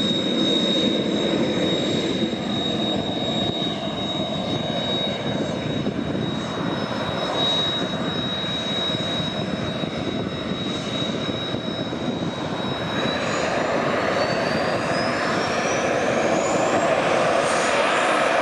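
Kawasaki T-4 jet trainer's twin turbofan engines running with a loud rushing noise and a steady high whine. About two-thirds of the way through the whine starts to rise in pitch and the sound gets louder as the engines spool up.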